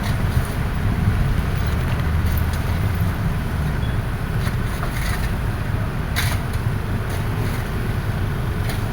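Excavator's diesel engine running steadily with a low rumble, with a few sharp knocks or clinks over it, the clearest about six seconds in.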